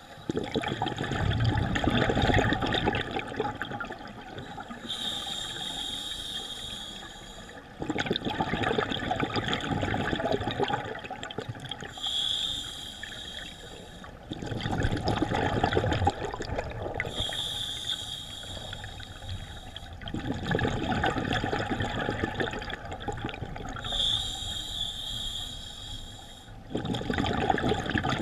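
Scuba diver breathing through a regulator underwater: a short hissing inhale, then a long gurgle of exhaled bubbles, repeating about every six and a half seconds.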